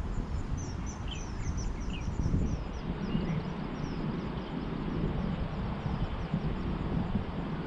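Small birds chirping in a quick run of short, high, down-slurred calls during the first few seconds, over a steady low rumble of outdoor background noise.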